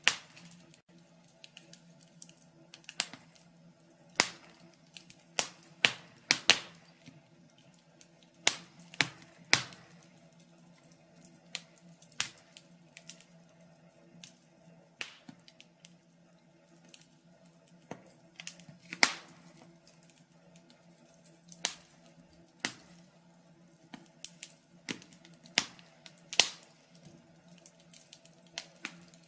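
Wood fire crackling: irregular sharp snaps and pops from the burning logs, some loud and many small, over a faint steady low hum.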